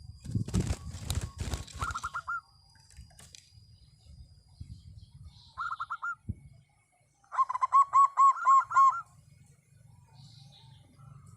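Zebra dove (perkutut) cooing in quick runs of rising-and-falling notes: a short phrase about two seconds in, another in the middle, then a longer, louder phrase of about eight notes. Over the first two seconds there is a burst of rustling clatter.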